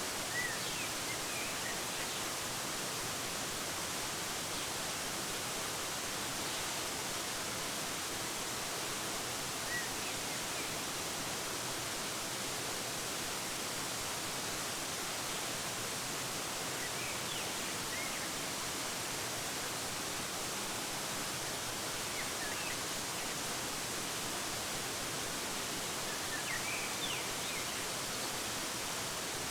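Steady rushing of a waterfall, an even hiss of falling water, with a few brief bird chirps scattered through.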